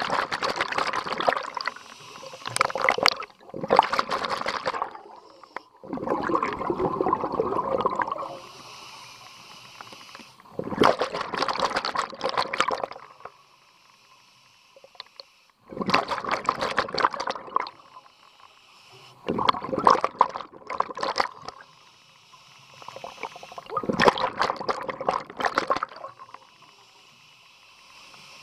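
A scuba diver breathing through a regulator underwater: about seven bursts of exhaled bubbles, each lasting a second or two, with quieter gaps for the inhales in between.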